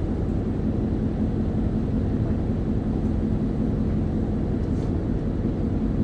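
Isuzu Erga city bus heard from inside the cabin: the diesel engine and drivetrain drone steadily, with a held low hum that does not rise or fall.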